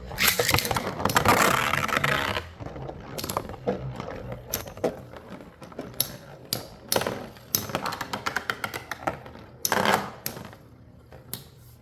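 Metal Beyblade spinning tops, Lightning L-Drago and Storm Pegasus, whirring and clashing in a stadium: a loud scraping burst in the first two seconds, then a run of sharp metallic clicks and knocks, with another burst about ten seconds in.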